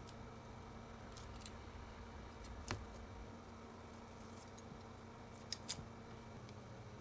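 A few faint, short clicks and snips from small handwork, the loudest about midway and two close together near the end, over a steady low hum.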